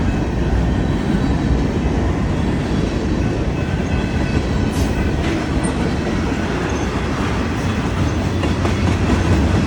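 Union Pacific freight train's cars rolling past on the rails, a loud, steady rumble of wheels on track.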